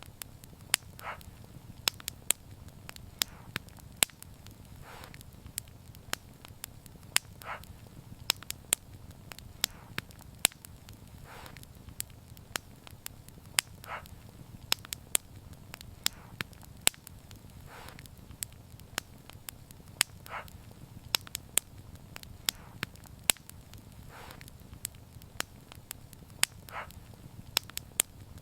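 Wood fire burning: sharp, irregular crackles and pops several times a second over a steady low rumble of flame, with a brief soft hiss every few seconds.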